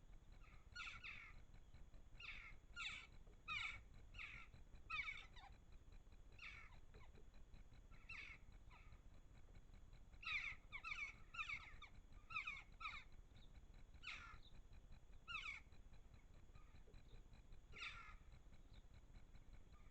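Birds calling: short calls repeated irregularly, some falling in pitch, over a faint steady hiss.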